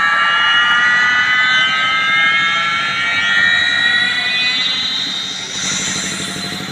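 A horeg sound system plays a loud, slowly rising siren-like sweep of several stacked tones during a sound check. The sweep fades out about five seconds in.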